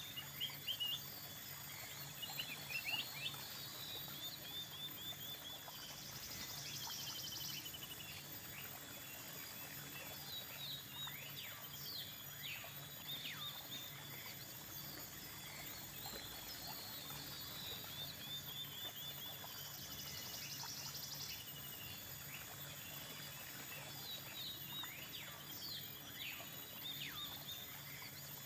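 Natural outdoor ambience: birds chirping and calling with short, repeated notes throughout, over a steady background hiss. A high insect buzz comes in briefly twice, once about six seconds in and again about twenty seconds in.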